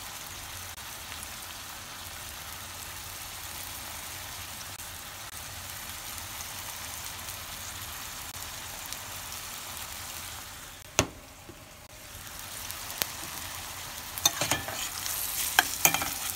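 Ackee and saltfish sizzling steadily in a stainless steel pot. About eleven seconds in there is a single sharp clink as the glass lid comes off. Near the end a spoon clinks and scrapes against the pot as the food is stirred.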